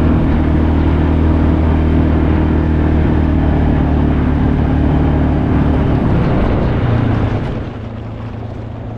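An engine running steadily, then dropping to a lower, quieter speed about seven and a half seconds in.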